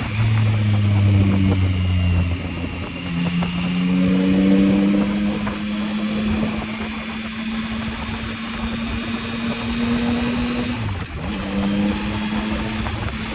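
Yamaha MT-09's three-cylinder engine running under way, its note mostly steady. It rises about three to four seconds in and dips briefly about eleven seconds in before picking up again.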